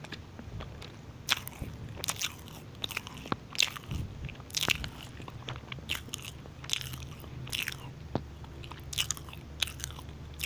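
Close-miked chewing of a moist cranberry muffin, heard as many irregular short mouth clicks.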